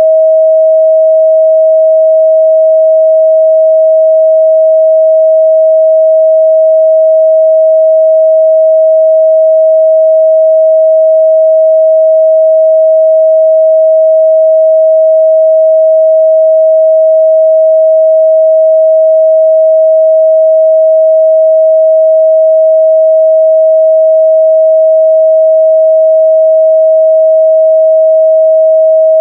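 A steady, loud 637 Hz sine-wave test tone, one pure unchanging pitch held throughout.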